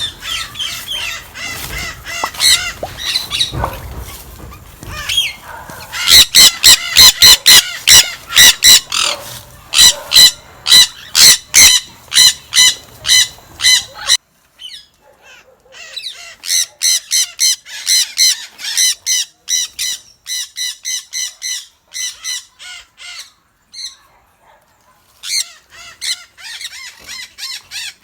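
Parrots in an aviary screeching, loud shrill calls repeated several times a second in long runs with short breaks; softer chirping at first.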